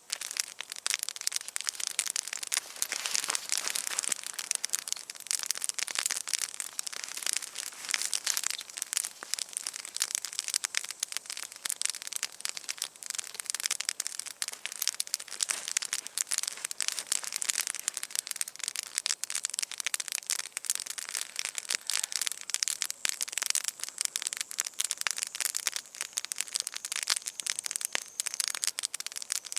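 Campfire burning and crackling: a continuous dense run of small sharp pops and snaps.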